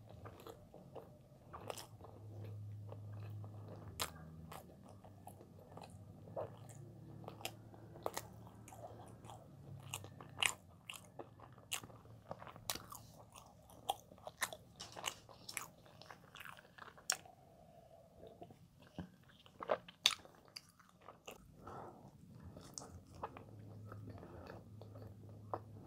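A person chewing and biting soft cheese-filled white bread, with irregular mouth clicks and smacks.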